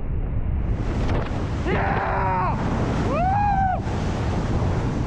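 Wind buffeting the microphone with rushing water on a speeding boat, a steady rumbling noise. Twice in the middle a person lets out a long yell that rises and then falls in pitch.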